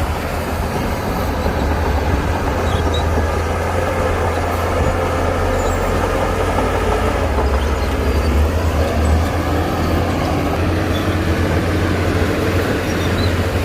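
Heavy diesel construction machinery running steadily under load, a deep, even engine drone.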